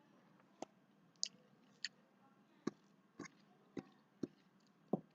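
Close-up eating sounds: about nine short, sharp mouth clicks and smacks at irregular intervals while chewing a mouthful of rice.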